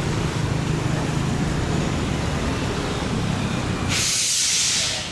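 A steady low engine hum, then about four seconds in a loud hiss for about a second while the hum drops away.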